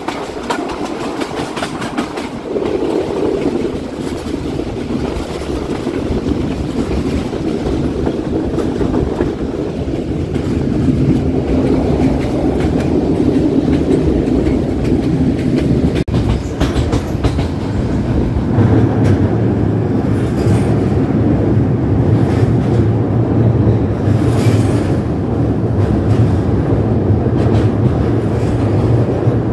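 Passenger train running on the line, wheels clicking over the rail joints. About two-thirds of the way in, the sound turns louder and deeper, with a steady low rumble, as the train crosses onto a bridge.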